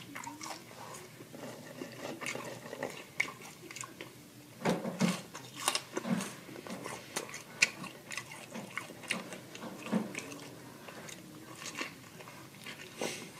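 Close-miked ASMR eating of fast food: biting and wet chewing with sharp mouth clicks, with louder bites about five to six seconds in and again near ten seconds.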